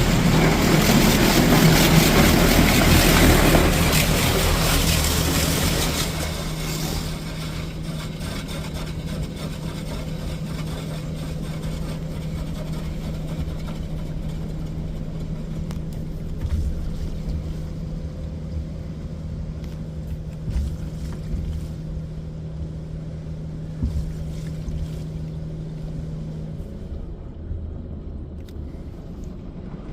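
Touchless car wash high-pressure water spraying against the car, heard from inside the cabin: loud and hissing for the first six seconds, then quieter, over a steady low pump hum that stops near the end.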